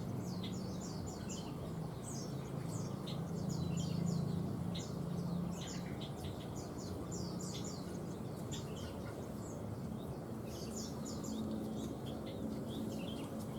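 Many small birds chirping: a dense run of short, quick, high-pitched downslurred calls, overlapping without pause. A low steady hum runs underneath for the first few seconds.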